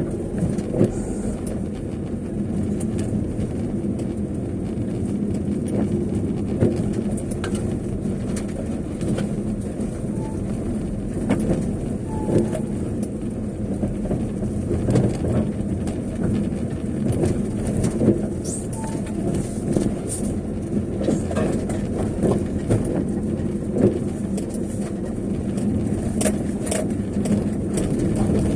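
A vehicle driving, with a steady engine and road rumble and frequent small knocks and rattles. A few faint short chirps are heard now and then.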